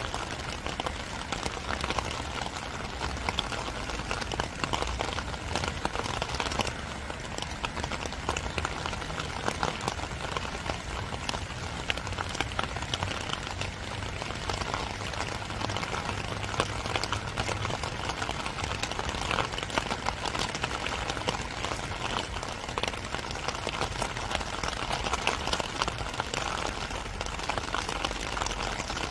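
Steady spring rain falling, a continuous hiss dotted with many sharp ticks of single drops striking close by.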